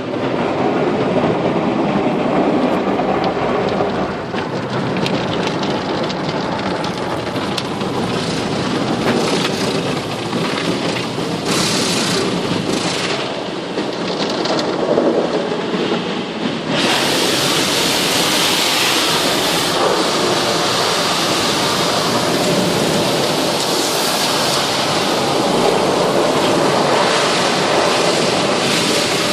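Automatic car wash running: a steady rush of water on a car, which turns abruptly louder and hissier about two-thirds of the way through.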